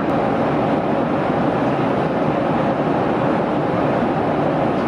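Steady rumble and rush of a moving vehicle heard from inside the cabin, even and unbroken.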